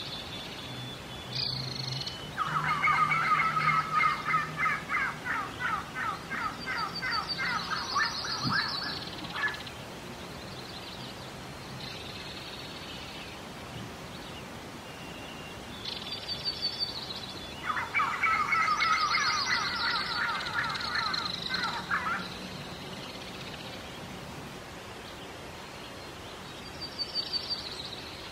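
Bird calls: two long, fast trills of rapidly repeated notes, several seconds each, one near the start and one past the middle, with short high chirps every few seconds between them.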